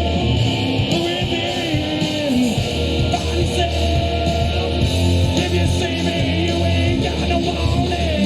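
Live rock band playing, guitar and singing, with long held notes that slide in pitch over a steady low end.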